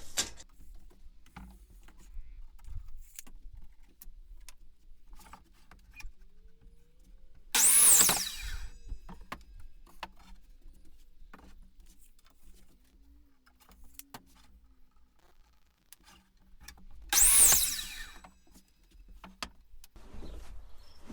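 Power saw cutting 2x4 lumber twice, about ten seconds apart: each time the motor spins up, runs through the board for about a second and winds down. Between cuts, light knocks and clicks of boards being handled and marked.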